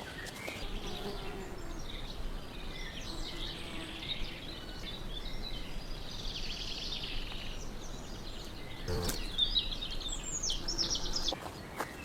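Birds chirping and singing in a forest, scattered calls overlapping throughout, with one sharp click about nine seconds in.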